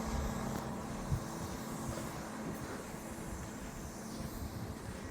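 Steady low outdoor rumble of distant traffic with a faint steady hum, and a soft knock about a second in.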